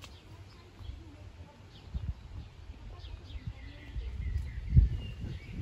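Small birds chirping with short high calls here and there, over irregular low rumbling bumps on the microphone; the loudest bump comes near the end.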